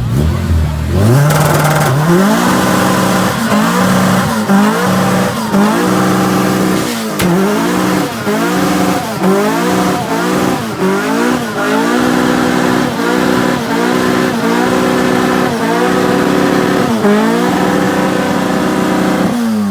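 A car engine is revved up hard about a second in and held at high revs. The revs dip briefly and climb back over and over, roughly once or twice a second. Near the end the revs fall away.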